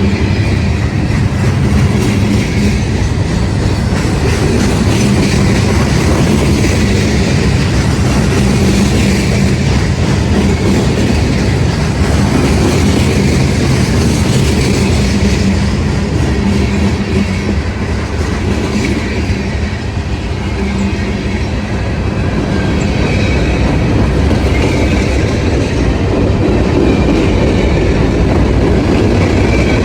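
A train rolling past on the rails, a steady, loud run of wheel clatter over the joints with some wheel squeal.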